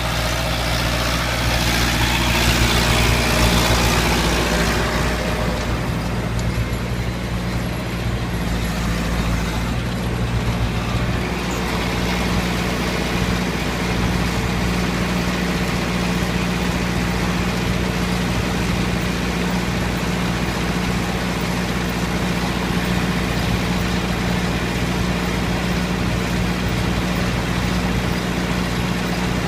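Massey Ferguson 3060 tractor's diesel engine running steadily. A louder, rougher stretch of noise fills the first few seconds, then the running settles to an even drone.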